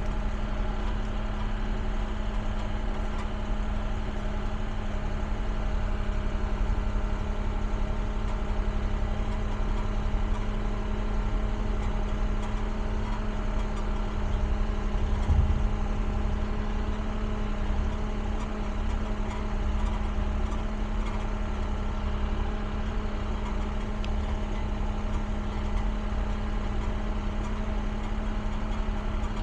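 Caterpillar excavator's diesel engine running steadily with a constant hum, with one brief low thump about halfway through.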